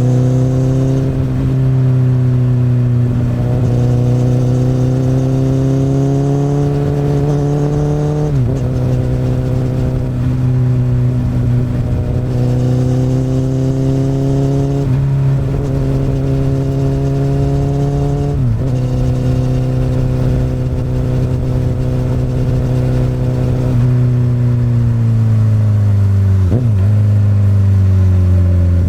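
Honda CBR1000RR inline-four engine through an Akrapovic exhaust, pulling under load: the note climbs slowly and drops sharply three times (about 8, 15 and 18 seconds in) as the rider shifts up. Near the end the pitch falls as the throttle eases off, with a brief sharp dip and recovery.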